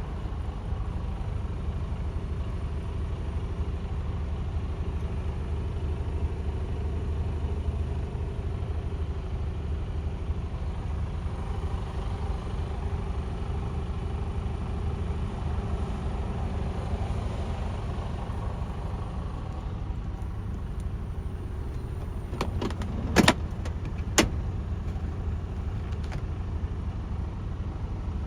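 Mercedes-Benz Actros 1842 truck's diesel engine idling steadily. Near the end come a few sharp clicks and knocks, the two loudest about a second apart.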